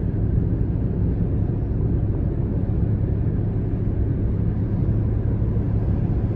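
Steady road and engine drone inside a moving car's cabin, a constant low rumble with no changes.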